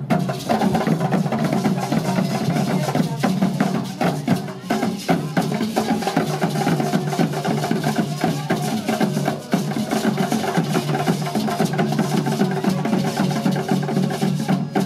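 Music with drums and other percussion, a continuous dense beat with many sharp strokes.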